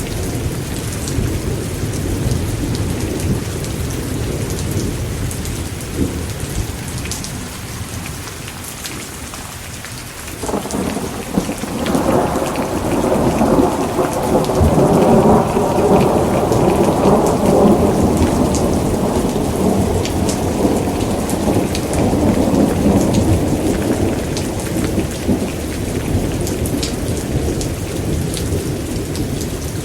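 Thunderstorm: steady rain with a long rolling rumble of thunder that breaks in suddenly about a third of the way through, swells for several seconds and then slowly dies away.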